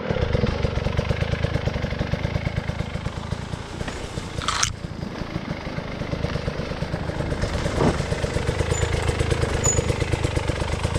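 Off-road trail motorcycle engine running, its exhaust pulsing steadily at low to moderate revs, with a short falling swish about four and a half seconds in.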